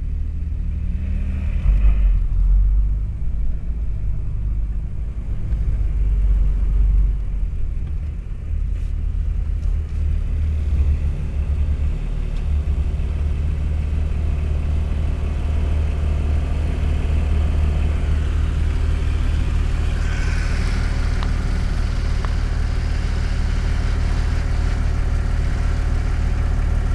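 Off-road 4x4's engine running, heard from inside the cabin as a deep, steady rumble. It swells and dips through the first twelve seconds or so and then settles, with a higher hiss joining in about twenty seconds in.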